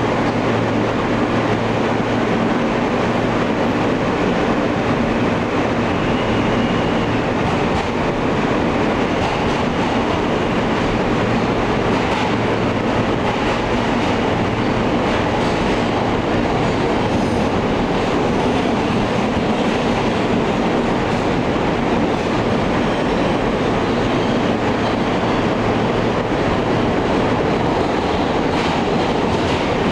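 Alstom R160A subway car running between stations, heard from on board: a steady, loud noise of wheels on rail and car motion.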